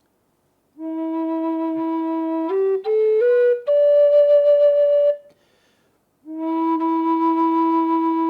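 Native American style flute in the key of E playing: a held low note, a quick run of rising notes up to a higher held note, a short pause, then the low note again.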